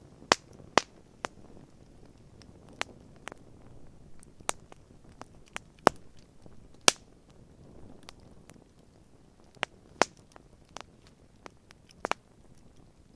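Wood campfire crackling: a dozen or more sharp, irregular pops and snaps over a quiet background.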